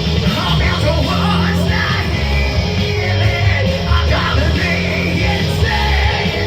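Loud rock music with a singer shouting over guitar, bass and drums.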